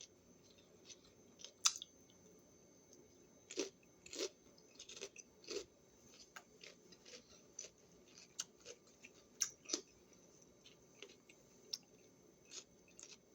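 A person chewing a raw vegetable snack with the mouth close to the microphone: faint, irregular wet crunches and clicks.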